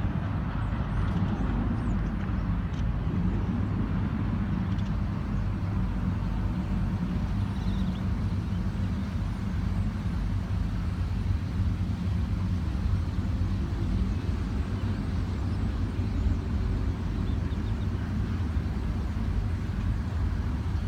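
Steady low rumble of a running motor vehicle, even throughout.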